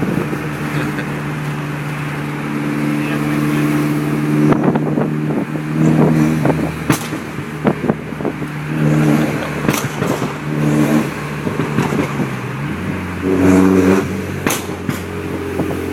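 R56 Mini's turbocharged four-cylinder engine running through a straight-piped 2.5-inch turbo-back exhaust with no muffler, resonator or catalytic converters, droning loudly as the car is driven, its pitch stepping up and down with the revs. Several sharp cracks come through over the engine note.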